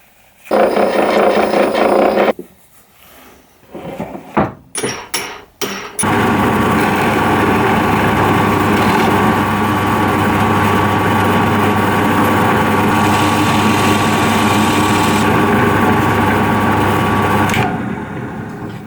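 A handheld power tool runs in a short burst. After a few clicks and knocks it runs again, steadily and loudly for about eleven seconds, then winds down near the end.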